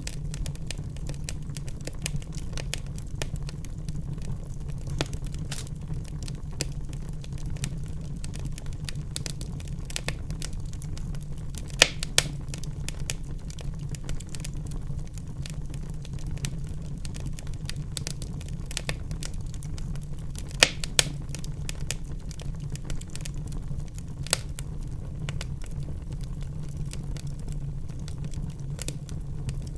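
Fire in a fireplace crackling: a steady low rumble of burning with frequent sharp pops and snaps. The loudest pops come as a pair about twelve seconds in and another pair about twenty-one seconds in.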